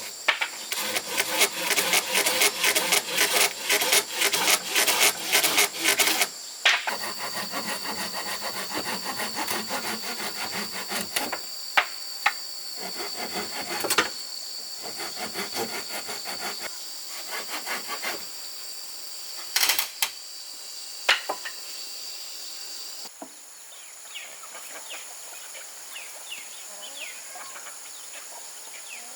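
Rhythmic rasping strokes of a hand tool working wood, fast and dense at first, then a lighter scraping with a few sharp clicks. A steady high insect drone runs through the middle. It gives way near the end to a quieter stretch with faint bird chirps.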